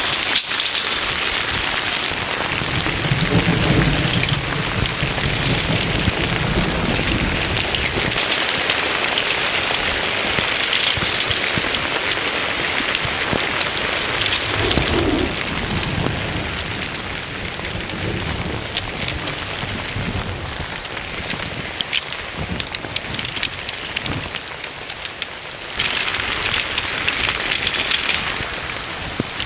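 Heavy rain falling steadily, with low thunder rumbling a few seconds in and again about halfway through. The rain briefly grows louder near the end.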